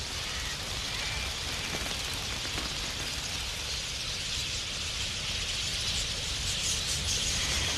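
Dense, hiss-like chatter of a huge flock of wild budgerigars, growing louder near the end.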